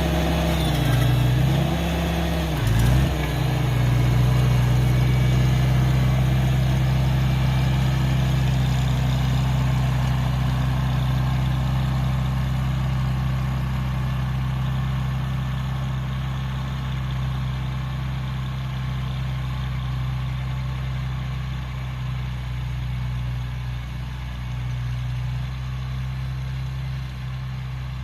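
1971 International Cub garden tractor's four-cylinder gasoline engine running. Its speed wavers and dips during the first few seconds, then holds steady.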